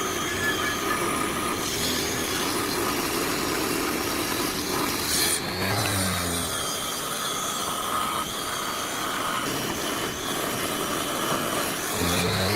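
Wood being sawn or worked, a steady rasping noise, with a brief low hum partway through.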